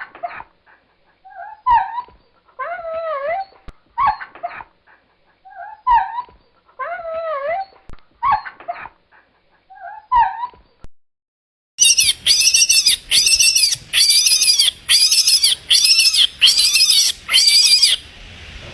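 Animal calls from two different animals: first a series of whining, yelping calls that waver and bend in pitch, then, after a short gap, a quick run of shrill repeated calls, about one and a half a second.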